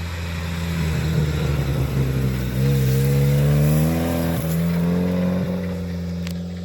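Car engine running and revving: its pitch rises about two and a half seconds in, holds, then drops back and the sound slowly fades near the end.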